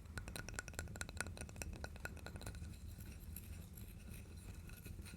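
Wood fire crackling in a fireplace: a quick run of sharp crackles and pops for the first couple of seconds, then only a few scattered ones over a steady low rumble.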